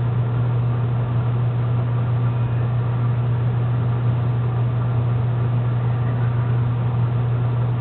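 A steady low hum over constant hiss, unchanging throughout.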